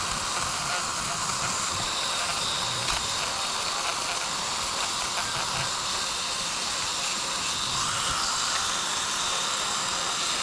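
A steady, even hiss that runs unbroken, with no clear pitch and most of its energy in the upper range.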